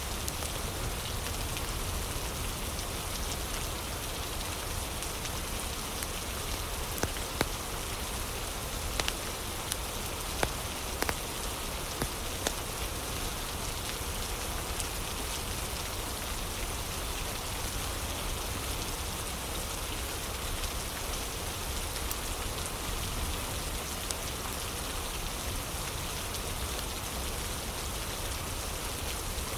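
Steady rain ambience with a crackling fire: a constant hiss of rain, and a few sharp crackling pops between about 7 and 12 seconds in.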